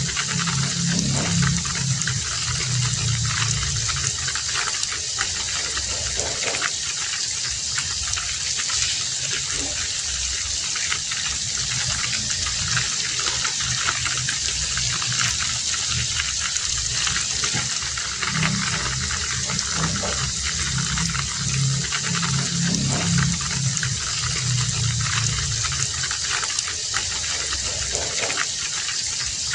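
Heavy rain falling steadily, a dense even hiss with scattered drop ticks. A low rumble swells and fades twice, near the start and again about two-thirds of the way through.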